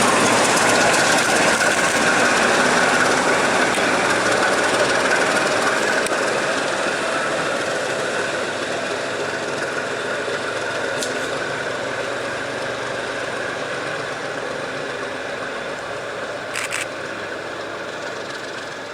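Train running along the rails with a steady rumble and rattle that fades slowly and evenly throughout, with a couple of short clicks in the later part.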